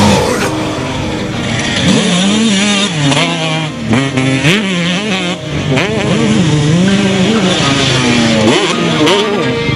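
Motocross dirt-bike engines revving hard, the pitch rising and falling again and again as the riders open and close the throttle.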